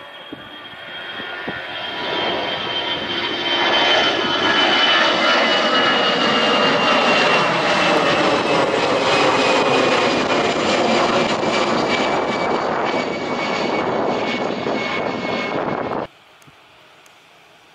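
Airliner engine noise rises over the first few seconds and then holds loud, with a high whine slowly falling in pitch. The sound cuts off abruptly near the end.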